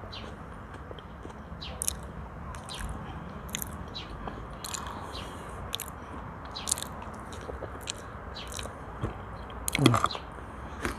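Close-miked chewing of a person eating, with wet mouth clicks and lip smacks every half second or so. A brief vocal sound comes near the end.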